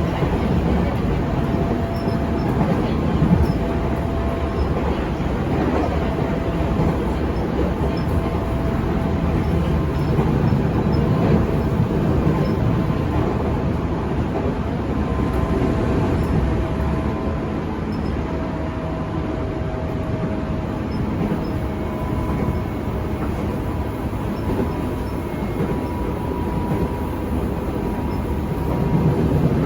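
Running noise inside a JR 205 series 500 subseries motor car under way: a steady rumble of wheels on rail, with a faint humming whine from the traction motors and gears that shifts a little in pitch now and then.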